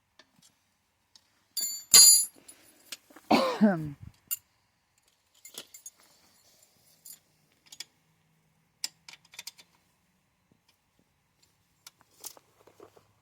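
Steel wrenches clinking and clanking against each other and the bike's axle hardware, loudest about two seconds in, followed by a short sound falling steeply in pitch and then scattered light metal clicks and taps.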